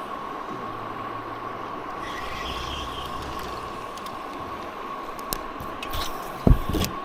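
Steady, unbroken drone of a cicada chorus. A few sharp clicks and a loud low thump near the end.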